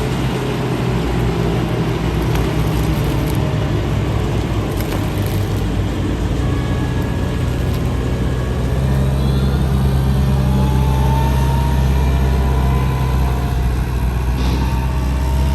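A heavy engine running steadily under load, its low note getting louder and shifting up about nine seconds in, with a faint gliding whine over it.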